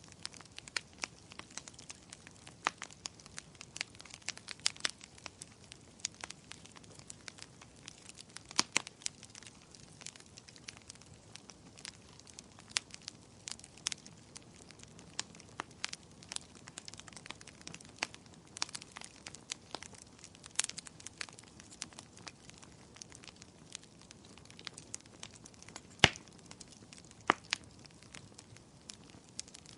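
Firewood burning in a fireplace, crackling with irregular sharp pops and snaps over a soft hiss; one louder pop about 26 seconds in.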